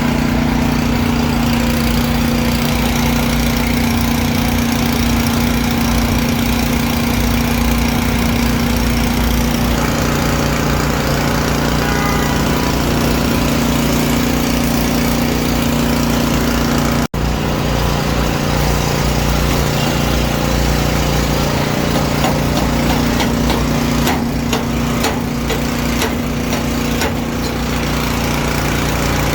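A motor running steadily with an even hum. It drops out for an instant about seventeen seconds in, and a run of light clicks and taps comes over it about three-quarters of the way through.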